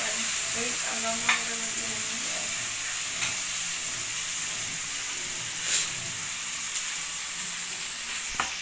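Onions and bell pepper strips sizzling as they are sautéed in a stainless steel pan. A metal spoon stirs them and clinks against the pan a few times.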